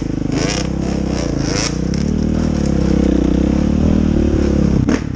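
Dirt bike engine running under changing throttle, its pitch rising and falling as it rides the trail. There are a few short knocks and scrapes along the way.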